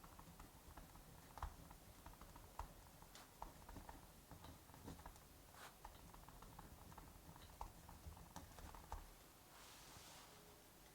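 Faint crackling of a wood fire, with irregular small pops and snaps, and a soft brief hiss near the end.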